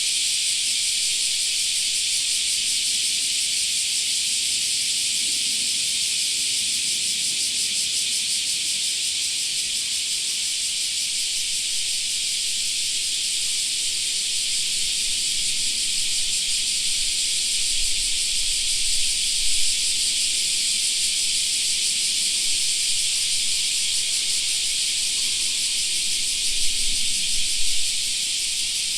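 Chorus of cicadas shrilling in one steady, high, sizzling drone with no pause. Two brief low rumbles come through underneath, about two-thirds of the way in and again near the end.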